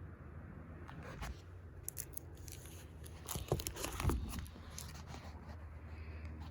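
Paper rustling and crinkling as a page of a photo book is turned: a cluster of short rustles and clicks from about one to five seconds in, loudest near the middle.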